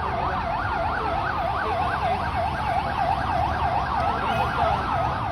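Emergency vehicle siren in fast yelp mode, rising and falling about three times a second, with a second siren sweeping more slowly through it, over a low rumble.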